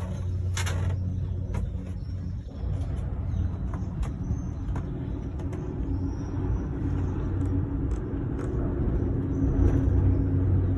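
Steady low rumble and hum inside a moving Skyrail cable-car gondola, with a few faint clicks.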